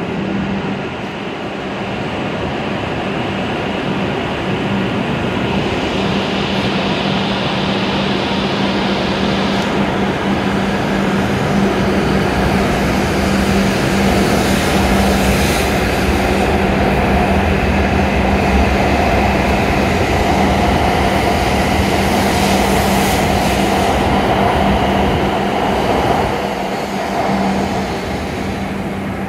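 W7 series Shinkansen train pulling out of the platform and accelerating past. The sound builds up steadily, holds through the middle, then falls away near the end as the last cars clear.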